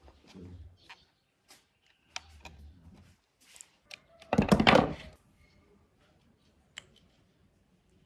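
Workshop handling noises: scattered clicks and knocks, with a brief loud rattle about four and a half seconds in.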